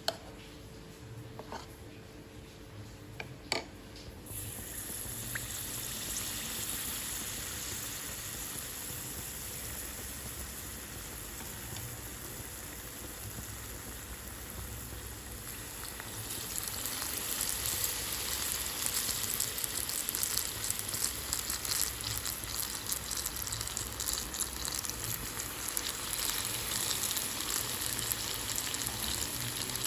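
Food frying in hot oil: a steady sizzle starts about four seconds in, after a few clicks, and grows louder with dense crackling from about halfway through.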